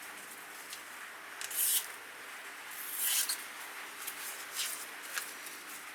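A freshly sharpened kitchen knife slicing through paper in a few short, scratchy swishes, a test of the edge's sharpness.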